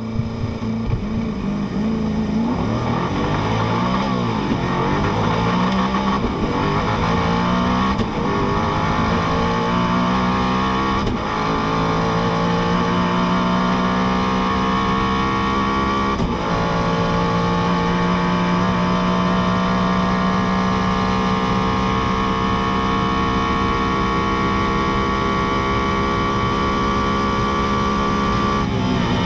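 Koenigsegg hypercar's twin-turbo V8 accelerating flat out, its note climbing and dropping at several upshifts in the first half. It then holds one long, slowly rising note at very high speed and falls away near the end as the car lifts off.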